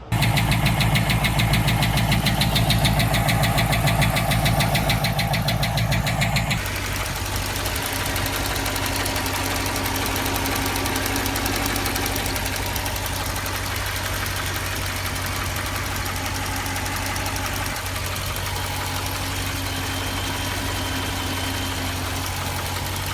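Hemi V8 idling with a fast ticking, the sign of an MDS lifter in the early stages of failure. For about the first six and a half seconds it runs louder and faster, then it drops to a lower, steadier idle.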